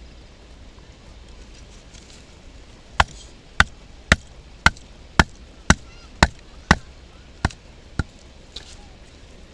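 A baton striking the spine of a Mora knife that is wedged in a hard firewood log. There are about ten sharp knocks at roughly two a second, the last two lighter. The wood is too hard and is not splitting.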